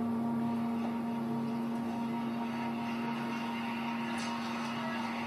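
A steady hum built on one held tone over a soft hiss, unchanging throughout.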